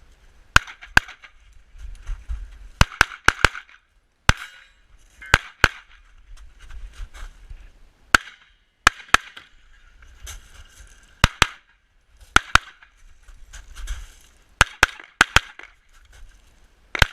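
Rapid pistol fire during a practical shooting stage: about twenty shots, mostly fired in quick pairs and short strings, with pauses of half a second to two seconds between groups.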